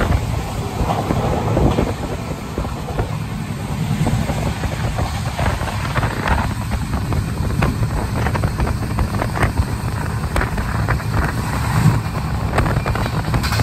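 Indian Railways passenger train running on the track, heard from on board: a steady low rumble with irregular clattering and wind buffeting the microphone.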